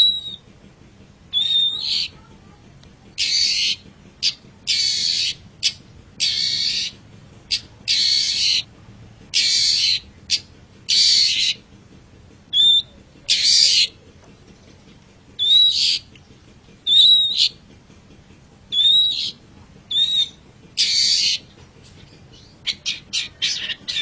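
Long-tailed shrike (cendet) calling: a series of harsh, scratchy calls about every second or two, several opening with a short whistled note. Near the end it breaks into a quick run of short chattering notes.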